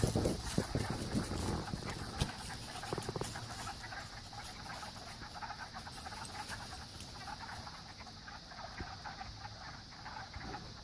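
A dog panting, louder in the first few seconds, over a steady chorus of pond frogs.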